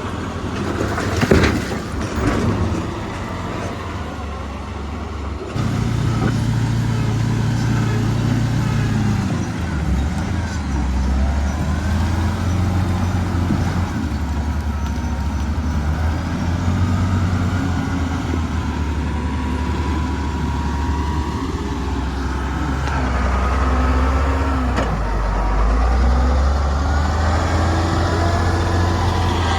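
Heavy diesel earthmoving machinery running, with a cluster of sharp knocks about a second in. From about five seconds on the engines run louder, their pitch stepping up and down, and a thin whine rises and falls near the end.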